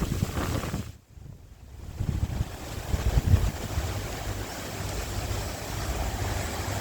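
Sea wind gusting over the microphone with a steady rustling hiss of bamboo leaves; the sound drops away briefly about a second in, then comes back and runs on evenly.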